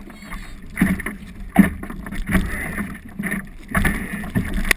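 Water slapping and splashing against the hull of a small sailing dinghy underway, in irregular surges, with wind on the microphone.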